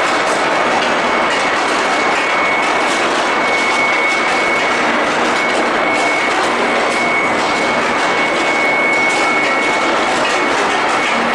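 Induction bar heating furnace running: a steady, loud machine noise with a constant high-pitched whine running through it, plus faint clatter.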